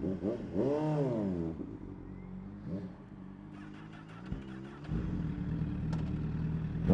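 Motor vehicle engine revving up and back down, briefly again a little later, then running steadily at idle from about five seconds in.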